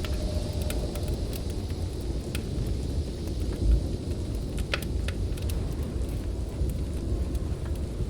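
Snowstorm wind rumbling low and steady, with the scattered sharp pops and crackles of a wood fire over it. A deep thump stands out a little before halfway.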